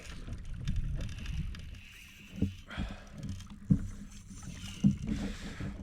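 Kayak on the water with a low wind rumble on the microphone and three knocks about a second apart around the middle.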